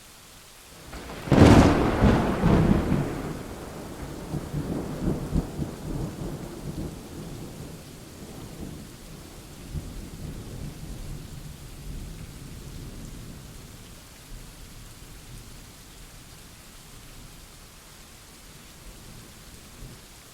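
Thunder: a sharp clap about a second in, then a low rumble dying away over the next dozen seconds, over a steady hiss of rain.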